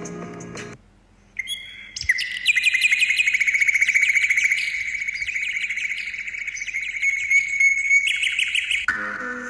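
A bird singing a long, fast trill of rapid repeated chirps that lasts about seven seconds. Background music stops about a second in and comes back just at the end.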